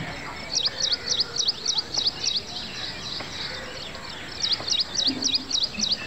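A small songbird calling in two runs of sharp, high chirps, each note a quick dip and rise in pitch, repeated about three times a second. Steady outdoor background noise underneath.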